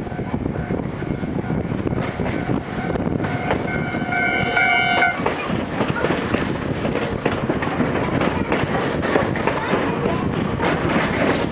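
Gakunan Railway 7000 series electric railcar running along the line, heard from inside the car: a steady rumble with wheels clicking over the rail joints. About four seconds in, a steady high tone sounds for a second and a half.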